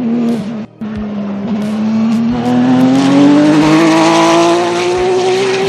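Race car engine accelerating hard, its pitch climbing steadily and growing louder over about five seconds in one gear, with a brief gap just under a second in.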